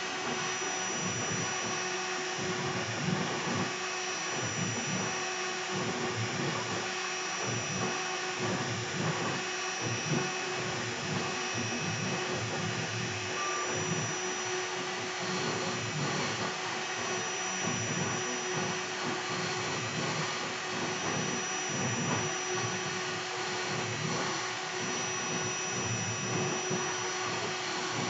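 PwnCnc 2.2 kW air-cooled spindle on a Longmill CNC router running steadily as a 60-degree triple-flute V-bit carves, a constant whine over a rushing, fluttering cutting noise.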